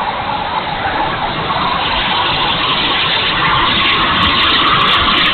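70 mm electric ducted fan of an E-flite F-16 Thunderbirds RC jet in flight, a steady rushing whine that rises slightly in pitch and grows louder over the last few seconds as the jet comes closer.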